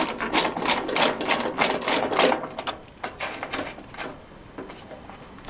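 A hand tool clicking rapidly while backing out the screws of a truck door's rear window track, a quick run of sharp clicks that thins out about three seconds in.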